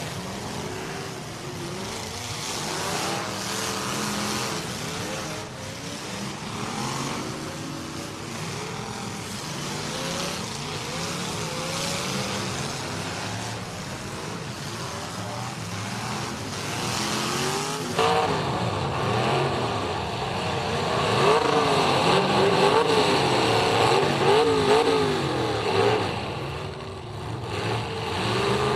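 Several demolition derby cars' engines revving hard and unevenly as they ram each other in a dirt arena, many pitches rising and falling over one another. About two-thirds of the way through the sound jumps suddenly louder and the revving becomes more prominent.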